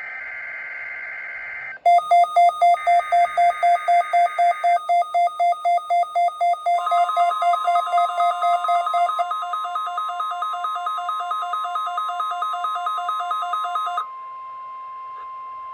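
NOAA Weather Radio weekly test alert: a short burst of screeching SAME digital header tones, then the receiver's alarm beeping about four to five times a second, then the steady 1050 Hz warning-alarm tone, with the beeping stopping a little before the tone.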